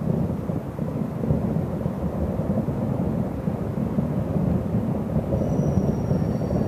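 A continuous deep rumbling in the sky, steady, with no separate sharp bangs. It is the unexplained thunderous booming overhead that the listener cannot account for and half suspects is fireworks.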